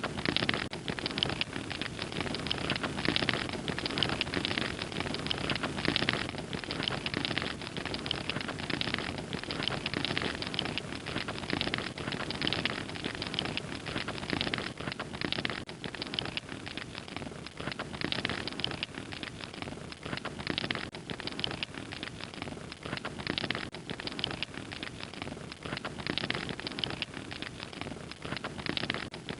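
Fire crackling steadily: many small irregular pops over a soft hiss.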